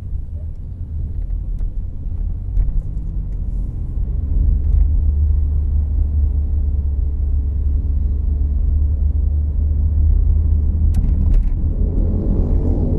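Inside the cabin of a 2014 Volkswagen Jetta Clásico on the move: a steady low rumble of engine and tyres on the road, growing louder about four seconds in, with a few faint clicks and rattles.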